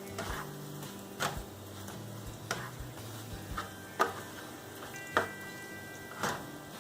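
A spatula stirring and turning scrambled eggs in a hot pan, knocking against it several times, with a light sizzle underneath. Soft background music plays throughout.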